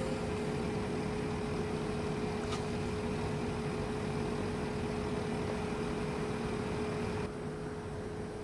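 Train running along the line: a steady rumble with a constant whine, one click about two and a half seconds in, and the high hiss falling away about seven seconds in.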